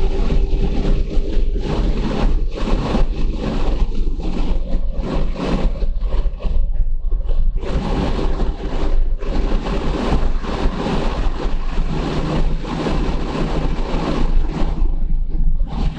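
2014 Subaru BRZ's 2.0-litre flat-four engine pulling hard under full throttle as the car accelerates from about 80 to over 100 mph, mixed with heavy wind and tyre noise.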